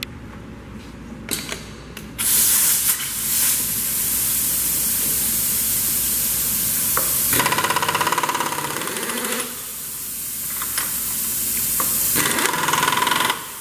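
Kurt pneumatic power drawbar on a Bridgeport mill spindle cycling: a loud hiss of compressed air for several seconds, then a rapid mechanical rattle as the air-driven drawbar hammers. A second rattling burst comes near the end.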